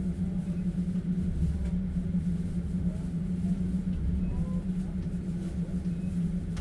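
Steady rumble of a passenger train carriage in motion, heard from inside a platskart sleeper car, with a constant low hum over it.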